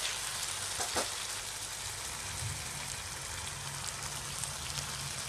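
Chicken keema, potatoes and tomatoes sizzling steadily in oil in a non-stick pan, with one light knock about a second in.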